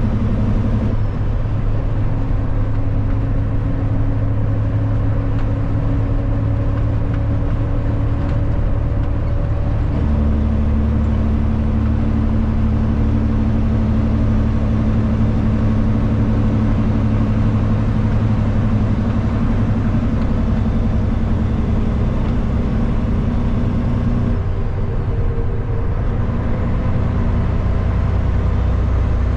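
Kenworth W900 semi truck's diesel engine pulling at road speed with steady engine drone. Its pitch shifts a few times, about a second in, about ten seconds in and near the end.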